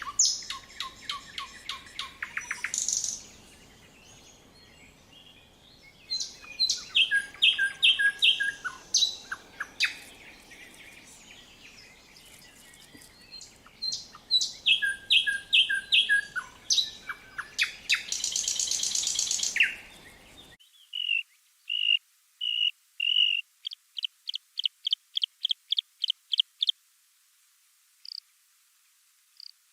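Several songbirds singing in a spring wood, with repeated whistled phrases and trills overlapping. About two-thirds of the way through, the background hiss cuts out and a single bird gives a series of evenly spaced chirps that speeds up and rises a little in pitch, followed by a few sparse high notes.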